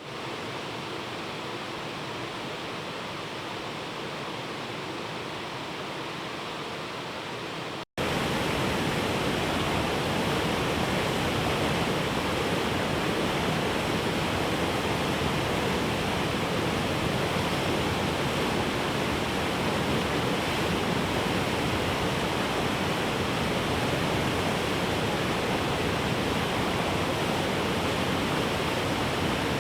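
Steady rush of flowing river water. It cuts out for an instant about eight seconds in and comes back louder.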